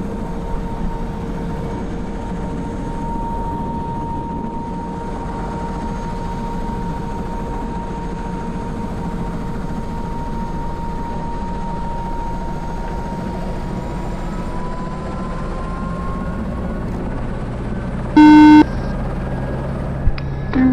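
H125 helicopter's Arriel turbine and rotor running steadily, with a thin whine that rises in pitch about two thirds of the way through. Near the end a loud electronic beep sounds for about half a second, followed by a short second tone.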